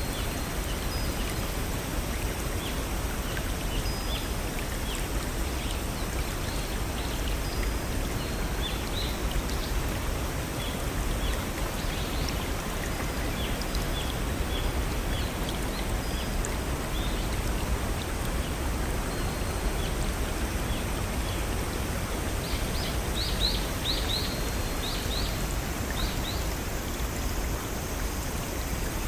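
Steady rushing of a small forest waterfall or brook, with birds chirping in short calls throughout and a quick run of chirps near the end.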